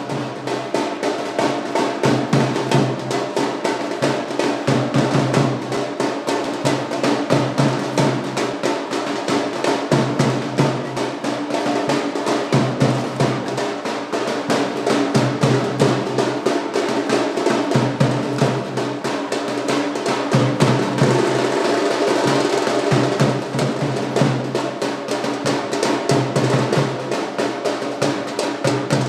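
Fast, continuous drumming with steady melodic music underneath.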